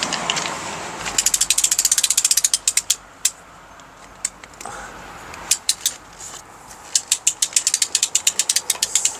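Crank-up patio umbrella's crank mechanism clicking as it is wound. There are two runs of rapid, even ratchet clicks, about a second in and again near the end, with a few single clicks between them.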